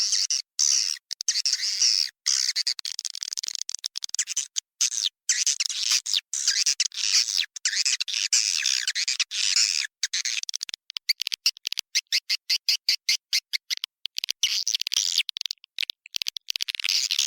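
Recorded swiftlet calls: a dense, high twittering of chirps broken by brief gaps, turning for a few seconds partway through into a fast stutter of short chirps. This is a swiftlet lure call, played to draw swiftlets in to roost and nest in a swiftlet house.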